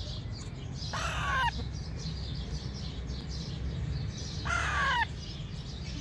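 Two harsh, caw-like bird calls, each about half a second long and falling in pitch, the first about a second in and the second near the end.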